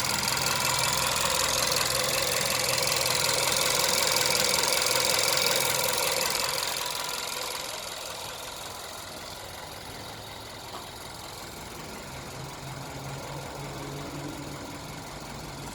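VW Caddy engine running, louder for the first six seconds or so, then easing down to a quieter, steady idle.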